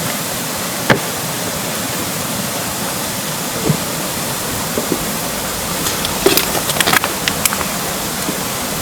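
Steady rain with the rushing hiss of a stream beneath it, and scattered sharp taps of falling drops, a cluster of them about six to seven seconds in.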